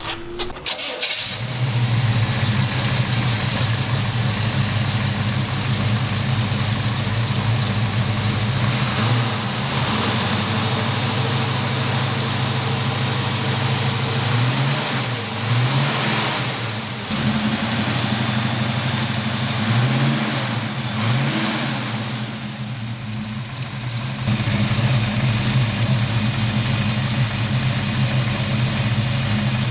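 1965 Chevrolet C10 pickup's engine starting about a second in and then running through its headers and dual exhaust. It is revved in several short blips in the middle and drops briefly quieter near the end.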